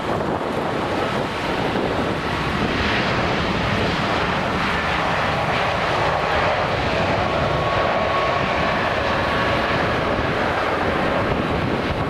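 Jet airliner's engines running as it passes, a steady rushing noise with a whine that comes in about halfway through, over wind buffeting the microphone.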